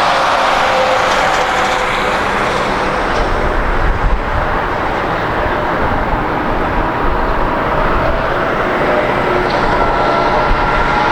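Jet airliner engines passing close by: a loud, steady rushing noise with faint whining tones that drift slightly in pitch.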